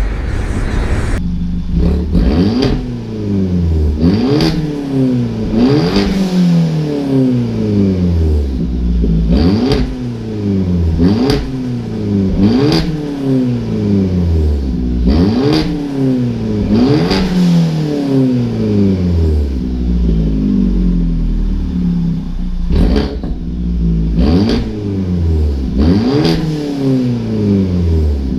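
Turbocharged 1.4-litre Dodge Dart engine with a straight-through Magnaflow exhaust revving again and again, the pitch jumping up sharply with a short sharp burst and then falling away, about every one to two seconds.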